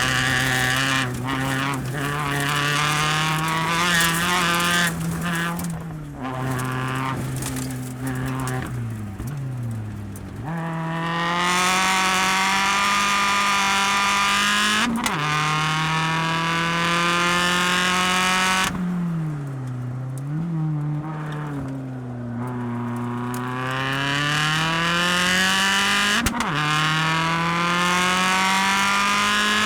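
Mini Countryman ALL4 rallycross supercar engine and exhaust heard onboard at racing speed. The engine revs climb and fall with quick upshifts, about 15 and 26 seconds in. While off the throttle, in the first ten seconds, the exhaust lets out a string of sharp cracks and pops.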